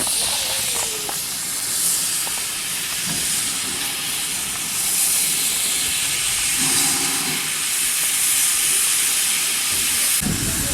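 Steam locomotive venting steam: a steady, loud hiss that swells slightly midway. A low rumble joins near the end.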